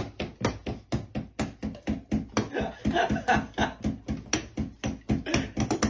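A dog chewing ice, with quick crunches at about four to six a second.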